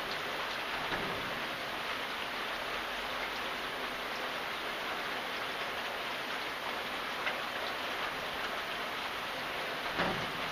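Steady rainfall, a dense even patter of drops with a few louder individual drips, and one brief heavier thud near the end.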